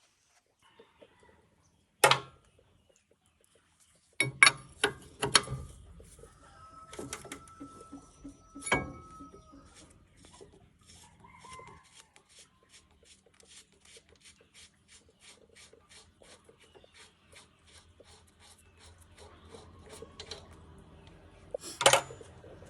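Hand tools clanking against metal tractor parts, a few sharp knocks, then a long run of light, even clicks, about three a second.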